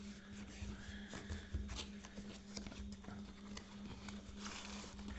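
A small cardboard product box being opened and its packaging handled: irregular clicks, taps and rustling, over a steady low electrical hum.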